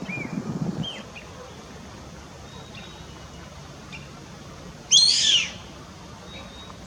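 Wild bird calls: a few short, down-curving whistled notes in the first second, then a loud, harsh call lasting about half a second about five seconds in.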